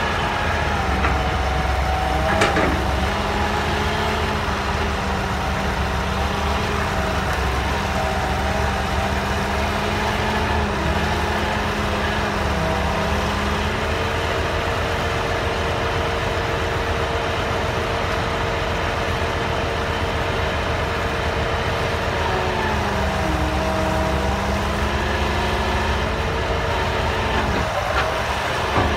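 Hydraulic excavator's engine running steadily with a low drone. Its pitch shifts and steps as the hydraulics take load while it digs and spreads soil. A sharp knock comes about two seconds in.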